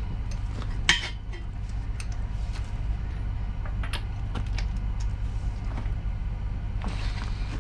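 Metal hand tools being handled: scattered clinks and clanks, the sharpest about a second in, over a steady low hum.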